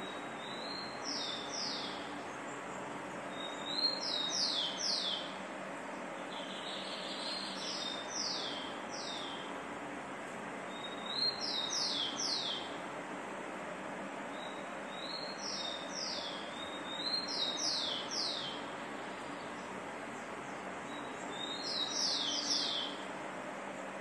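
A bird calling over and over, each phrase a short rising note followed by three or four quick high downslurred notes, repeated about every three to four seconds over a steady hiss.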